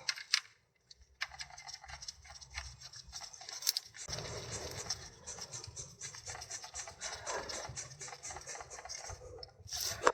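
Hands fitting small parts onto a gearbox shift actuator: rubbing and scraping with many light clicks, a sharper click near the end.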